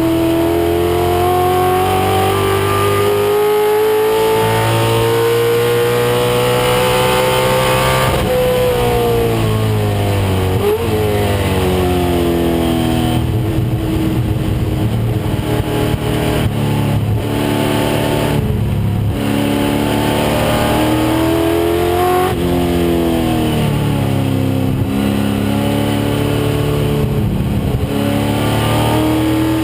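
1996 Ford Mustang race car's engine running hard at racing speed, its pitch climbing steadily for about eight seconds, then dropping and climbing again several times through the rest of the run.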